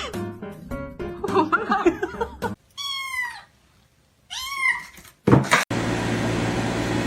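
A cat meowing twice, two drawn-out meows a little over a second apart, the first falling in pitch and the second rising then falling.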